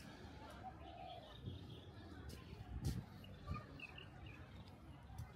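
Faint bird calls: a short low call about a second in and a few brief higher chirps a little past the middle, over a quiet outdoor background with a few soft knocks.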